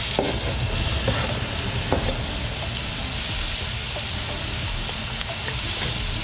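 Chopped onions sizzling in hot melted butter in a frying pan as they are stirred with a wooden spatula. A steady, hissing sizzle, with a few light knocks in the first two seconds.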